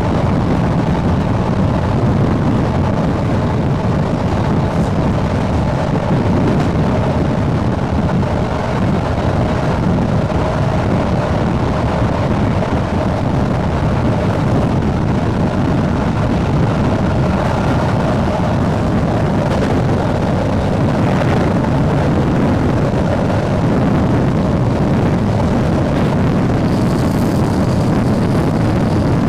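SNCB AM80 electric multiple unit running at steady speed: continuous traction motor and rolling noise with a faint, even whine that holds its pitch.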